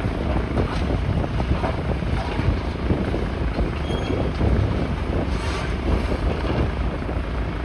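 Wind buffeting the microphone: a gusty, uneven low rumble with hiss above it.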